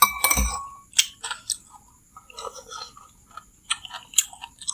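Close-miked chewing and wet mouth clicks of people eating chicken noodle soup. A short ringing clink comes right at the start, and scattered sharp clicks follow.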